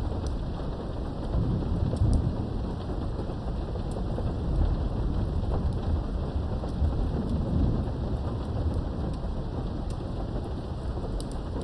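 Steady rain with low rumbles of thunder, the rumble swelling about two seconds in and again around seven seconds, over scattered ticks of individual drops.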